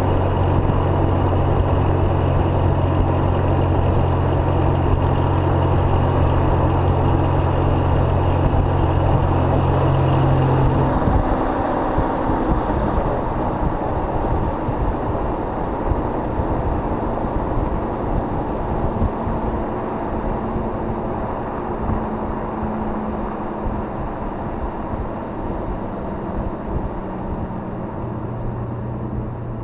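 2005 Jeep Grand Cherokee running through a welded Thrush muffler: a steady low exhaust drone over an even road-and-wind hiss. The drone drops away about a third of the way in, the whole sound eases down, and the drone comes back near the end.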